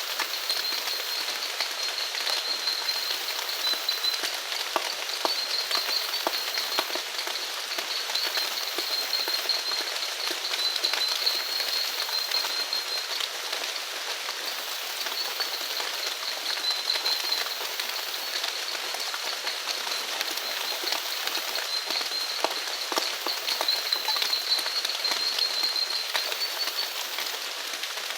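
Steady rain falling on surfaces, with many separate drops ticking. Over it runs a continuous high-pitched, pulsing trill from a calling animal.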